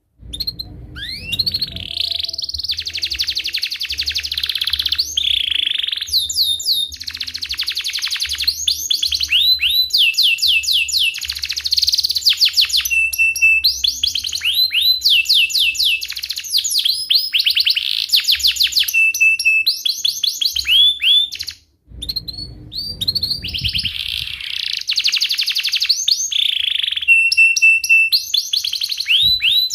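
Domestic canary singing a long, energetic song of fast rolling trills and chirps, rapid runs of repeated notes sweeping downward in pitch. The song breaks off briefly about two thirds of the way through, then starts again.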